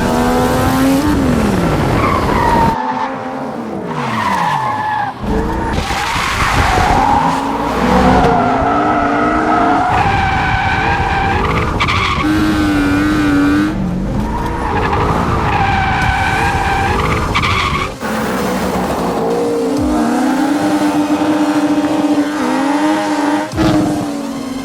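High-revving engines of drifting vehicles, rising and falling in pitch, with tyre squeal and skidding. The sound breaks off abruptly several times, as at edits between passes.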